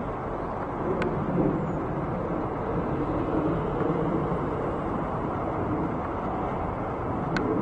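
Jet airliner engine noise: a steady rumble that wavers slightly, with faint clicks about a second in and near the end.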